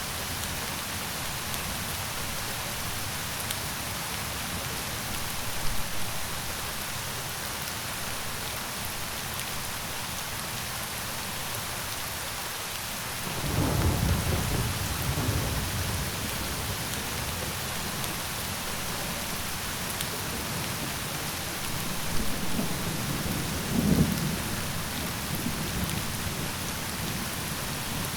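Steady rain hissing, with thunder rumbling in twice: a long roll starting suddenly about halfway through, and a shorter one near the end.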